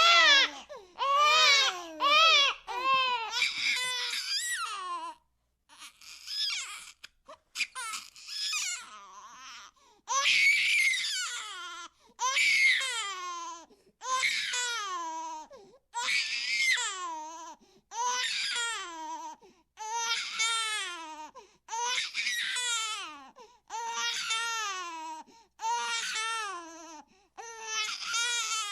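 Baby crying: a repeated series of cries about every two seconds, each one rising and then falling in pitch. About five seconds in, the crying breaks into a few seconds of quieter, choppy sounds before the regular cries resume.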